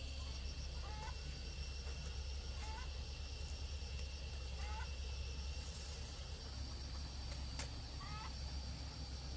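Chickens giving short calls, about one every two seconds, over a steady high-pitched insect drone.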